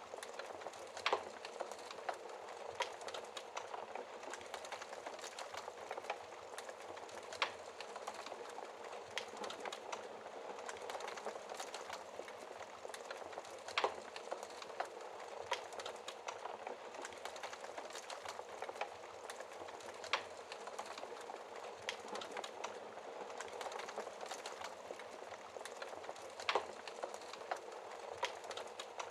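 Wood fire burning in a fireplace: a steady crackle with louder sharp pops every few seconds.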